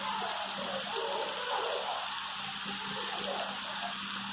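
Steady rain falling, a continuous even rush of water, with a low steady hum underneath.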